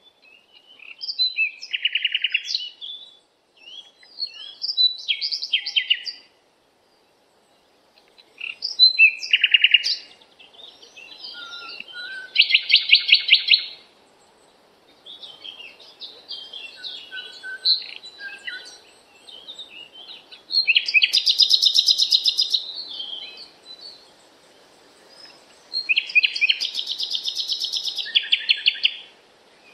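Songbird singing: repeated phrases of quick high chirps and rapid trills, with short pauses between them and a silent break of about two seconds after about six seconds. A faint outdoor hiss lies underneath.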